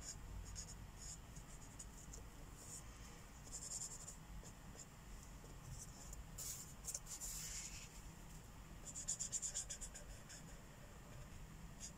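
Felt-tip marker scratching on a colouring-book page in quick back-and-forth strokes, coming in bunches with short pauses between them.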